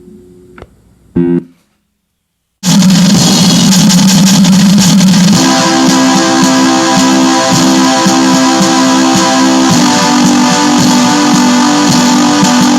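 Black metal demo recording: a faint held drone ends with a click and a brief loud burst, then about a second of silence. Loud, heavily distorted electric guitar and bass come in at full volume, and from about five seconds in they settle into a riff of repeated picked notes.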